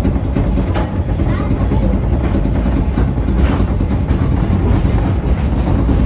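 Vietnam Railways passenger train running with a loud, steady rumble, and a few faint clacks from the wheels.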